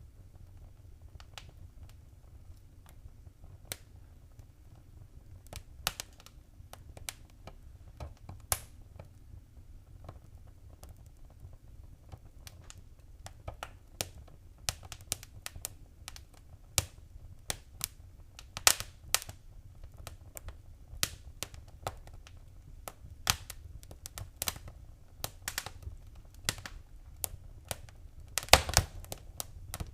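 Wood fire crackling, with irregular sharp pops and snaps over a steady low rumble. The pops come more often in the second half, and a quick burst of the loudest ones comes near the end.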